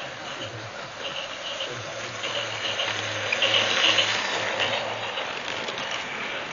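Battery-operated toy train running on its plastic track: a small electric motor whirring with the wheels clattering. It grows louder as it passes close about four seconds in, then fades a little.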